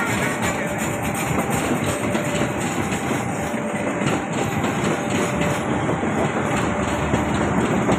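A train passing close by, its wheels rolling steadily on the rails.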